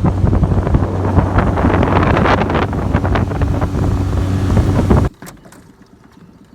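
Outboard motor of a fishing boat running under way, with wind buffeting the microphone and water noise. It all cuts off suddenly about five seconds in, leaving only a faint low hum.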